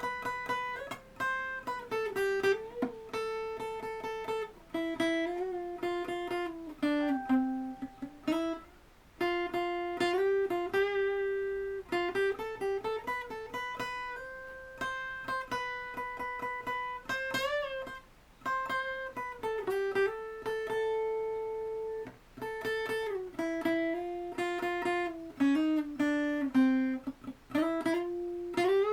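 A guitar playing single-note rock riffs, notes held and bent with vibrato, in phrases with short breaks between them.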